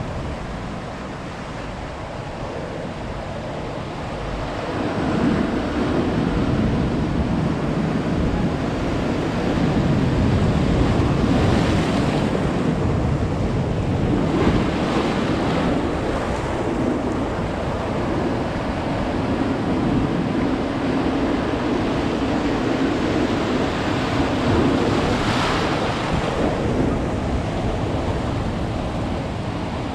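Ocean surf: waves breaking and washing up a beach, the rushing noise swelling several times as each wave comes in.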